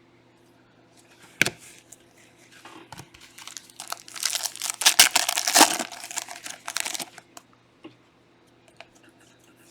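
Foil trading-card pack wrapper being torn open and crinkled, loudest in the middle, after a single tap; a few light clicks follow near the end.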